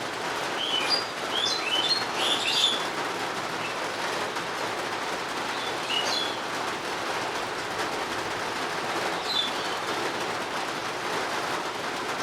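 Steady rain falling, with small birds chirping over it: a quick flurry of short high chirps in the first few seconds, then single chirps about six and nine seconds in.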